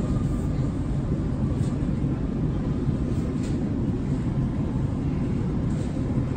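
Inside an E231-800 series commuter train car: the steady low rumble of the train running on its rails.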